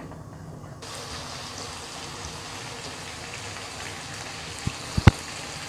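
Mutton in thick onion-tomato masala frying and bubbling in oil in a kadhai on high flame: a steady sizzling hiss, with a few light knocks near the end.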